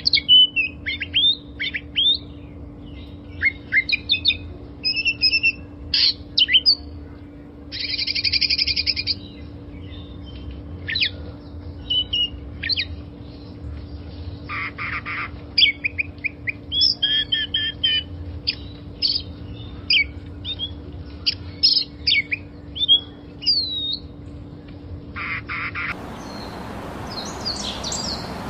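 Small songbirds chirping and tweeting in quick, overlapping calls, with a buzzy trill about eight seconds in, over a steady low hum. Near the end the hum gives way to a hissing background as the calls go on.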